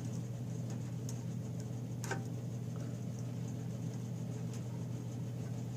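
A few light clicks and taps of small engine parts and a gasket being handled and fitted, over a steady low hum.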